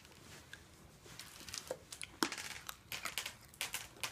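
Irregular crinkling and crackling with scattered sharp clicks, the sharpest about two seconds in, as crinkly wrapping is handled.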